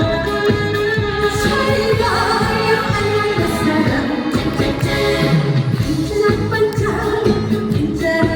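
Trot music played live: a woman singing over a backing track with a steady beat.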